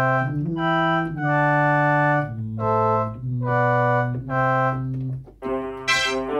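Yamaha PSR-175 portable keyboard playing a sustained preset voice: about six held notes, each with a low note beneath it. Shortly before the end a brighter, different sound comes in.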